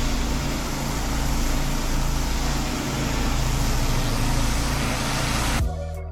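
Engine of a roof-cleaning pressure washer running steadily under a hiss of water spray. It cuts off suddenly near the end.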